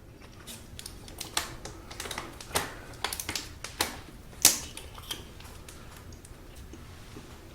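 Eating utensils clicking and tapping against a bowl during a meal: an irregular run of sharp taps lasting about four seconds, with one louder clack a little past the middle.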